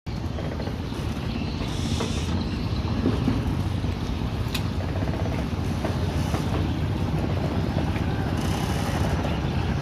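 Speedboat engine running steadily, a continuous low rumble with wind and water noise over it. A single short click sounds about halfway through.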